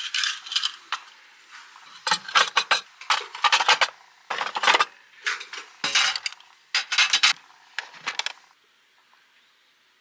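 Metal kitchenware clattering and clinking in several short bunches, starting with a brief clink, with the main clatter from about two seconds in and stopping shortly after eight seconds.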